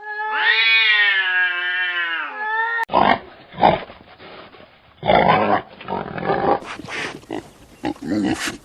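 A cat's long drawn-out meow lasting nearly three seconds. After an abrupt cut, a pig grunts several times in short rough sounds.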